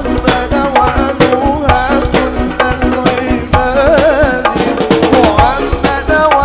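Marawis ensemble playing: hand drums beat a fast, dense rhythm under a singer's wavering, ornamented vocal line in an Arabic devotional song.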